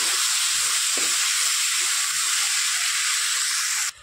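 Chopped onion, tomato and ginger sizzling in hot oil in a kadhai: a loud, steady frying hiss that cuts off abruptly near the end.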